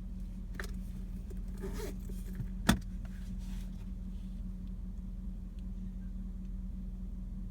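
Steady low hum of an idling car heard from inside, with brief rustling and one sharp click nearly three seconds in.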